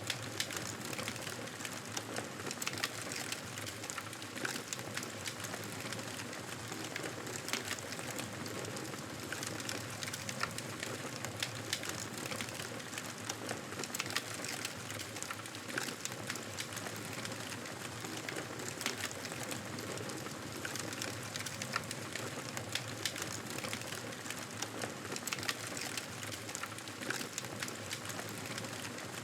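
Wood fire burning, crackling and popping with many small sharp snaps over a steady hiss.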